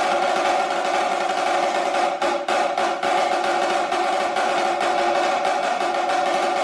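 Snare drum played in a dense, sustained roll, with a few separate accented strokes breaking through about two seconds in.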